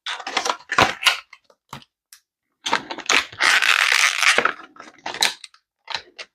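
Plastic blister and cardboard packaging of a diecast toy car being ripped open by hand: sharp crackles, then a long tearing rip a little under halfway through, then a few more crackles.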